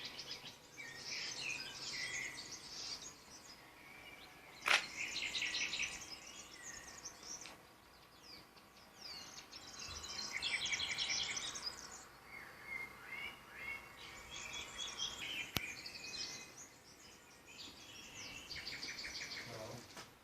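Songbirds singing, with quick trills and chirps from several birds overlapping throughout. A sharp click stands out about five seconds in, and a fainter one near the end.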